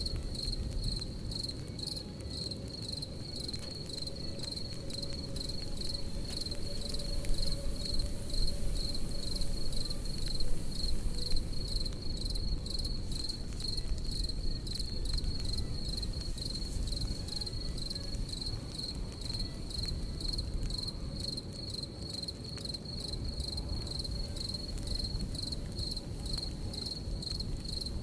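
Crickets chirping in a steady, rapid high-pitched pulse over the low rumble and crackle of a campfire, with a few louder pops about seven to eleven seconds in.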